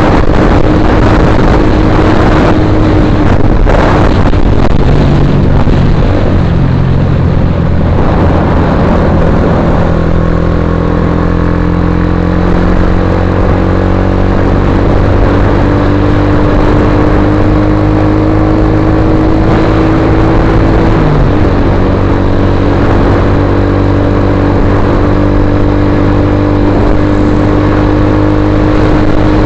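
Suzuki GSX-R150's single-cylinder engine running loud through an aftermarket Akrapovic-style carbon muffler, its pitch climbing slowly, dipping briefly about 21 seconds in, then climbing again.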